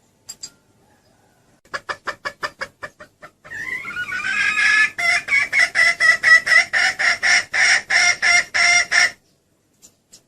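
Junglefowl hen calling: a quick run of clucks, then a longer harsh call running into a fast series of loud repeated cackling notes, about four or five a second, which stops abruptly near the end.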